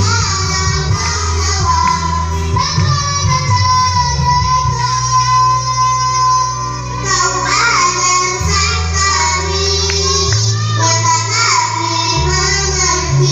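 A child singing a slow melodic song over a backing track with a steady bass line. The notes waver, and one long note is held near the middle.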